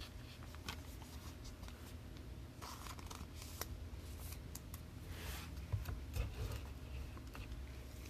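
Trading cards and plastic card holders being handled: soft rustling scrapes and light clicks, scattered at irregular intervals.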